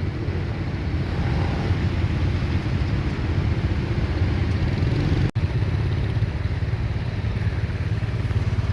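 Motorcycle engine running while being ridden, a steady low rumble with a momentary break about five seconds in.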